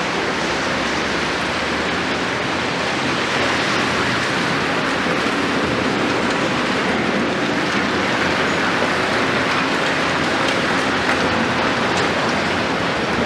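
Large Volvo EC700 demolition excavator's diesel engine running steadily under a constant hiss of rain.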